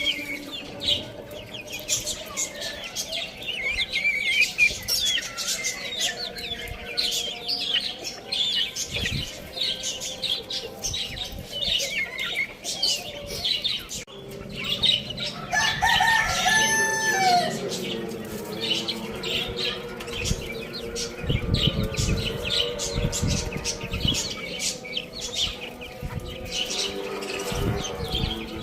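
Small birds chirping rapidly throughout, with a rooster crowing once about halfway through, a single call of about two and a half seconds. Low thuds follow a few seconds after the crow.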